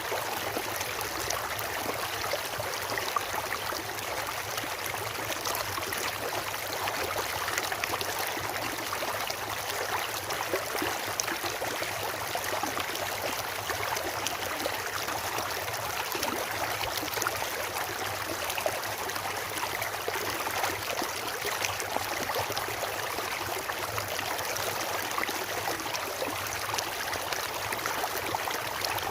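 Water of a stream or small waterfall flowing steadily, with many small splashes throughout.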